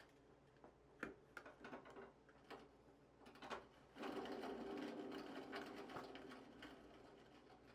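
Faint clicks and clatter of tools on metal pedal-car parts, then a steady mechanical whir from about four seconds in that fades away over the next few seconds.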